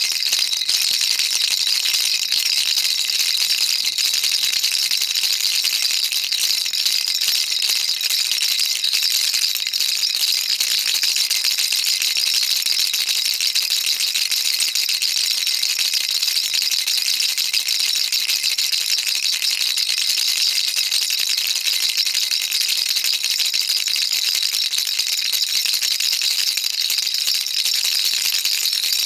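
Baby rattle shaken continuously, a dense, even, high-pitched rattling with no pauses.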